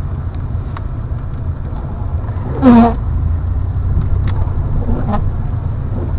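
Vehicle engine running steadily with a low rumble as it creeps forward through snow, heard from inside the cab. A short vocal sound from the driver about two and a half seconds in is the loudest moment, with a fainter one near the end.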